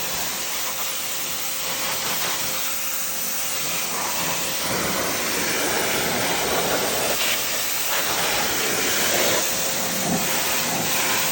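Pressure washer spraying water: a steady hiss, with a faint steady hum in the first few seconds and again near the end.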